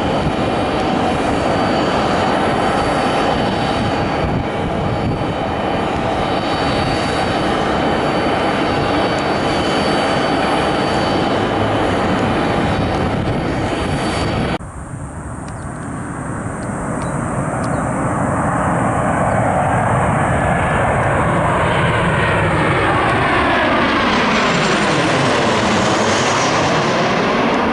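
Jet airliner engines running loud and steady with a high whine. Sound cuts off abruptly about halfway through, then another jet builds up and passes close, its tone sweeping down and back up as it goes by.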